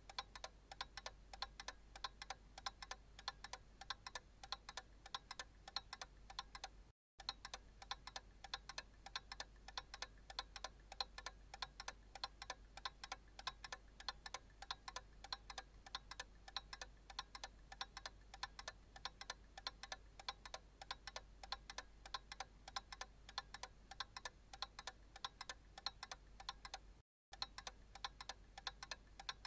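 Analog clock ticking in a steady, even rhythm, with two very brief silent dropouts.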